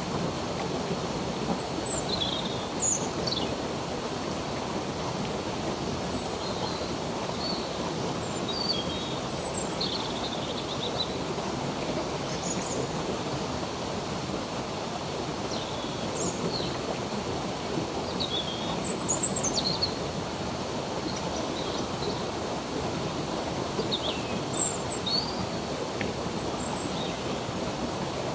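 Water flowing steadily in a stream, with birds chirping short calls and whistles over it every second or two.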